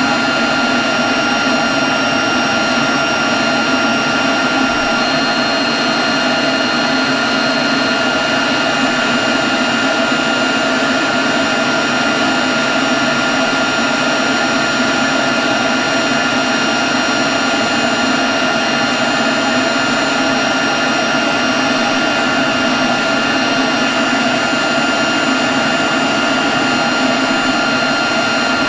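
Leaf blower running steadily at constant speed: a rush of air with a steady high whine over it.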